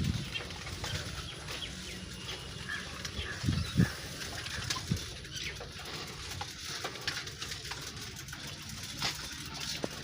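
Birds calling in a village, short scattered chirps over a faint steady background.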